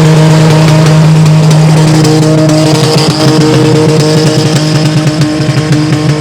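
Loud drag car engine held at steady high revs.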